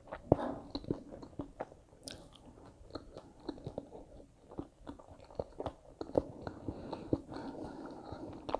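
A person chewing a mouthful of food with the mouth closed: irregular small mouth clicks, a few a second.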